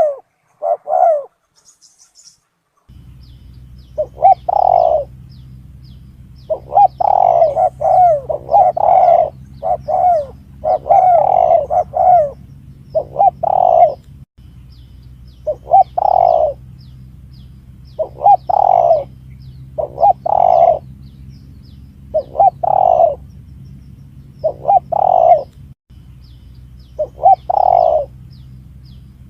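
Spotted dove cooing over and over in short repeated phrases. A steady low hum comes in about three seconds in and runs under the calls.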